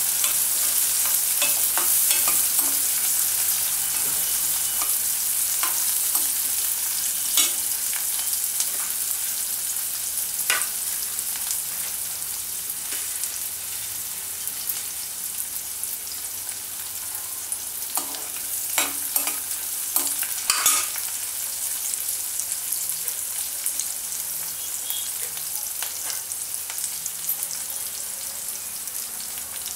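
Chopped green chillies and garlic sizzling gently in oil in a kadhai over a low gas flame. Now and then a metal ladle scrapes and clinks against the pan, most busily about two thirds of the way through. The sizzle slowly grows quieter.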